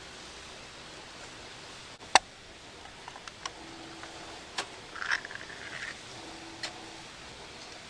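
A few sharp clicks and knocks of small objects being handled, one much louder about two seconds in, with a short rustle around five seconds.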